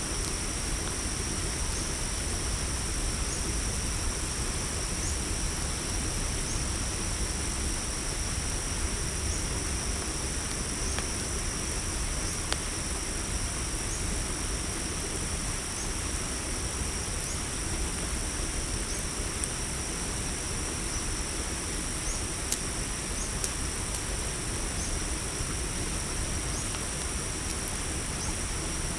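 Crickets trilling steadily at night, with a short chirp repeating about every second and a half. Beneath them a campfire gives sparse crackles and pops over a low steady rumble.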